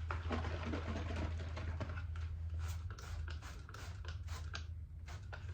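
Handling noise: rustling and a few small sharp clicks, over a low steady hum that stops about three and a half seconds in.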